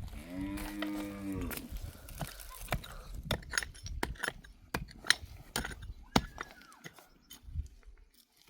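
A farm animal gives a single drawn-out moo-like call lasting over a second, right at the start. Scattered sharp clicks and knocks follow.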